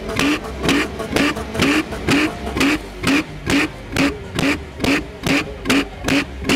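Golf Mk2 VR6 engine revved in quick, regular throttle blips, about three a second, each short rising rev ending in a sharp exhaust bang: unburnt fuel igniting in the exhaust, the bangs that come with exhaust flames.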